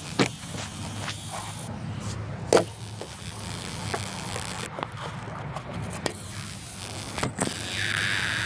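Sounds from a BMW 323ci that will not start after a gasket replacement: a steady low hum with scattered clicks and knocks, then a louder rushing whirr that starts near the end.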